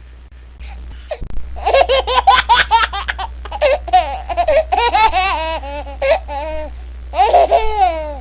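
A baby laughing in quick runs of high-pitched bursts, starting about a second in, with a brief pause and another laugh near the end. A steady low hum lies underneath.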